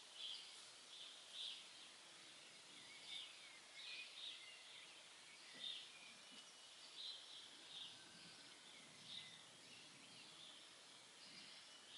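Faint songbirds chirping among trees: short high notes from several birds, about one a second, over a soft steady background hiss.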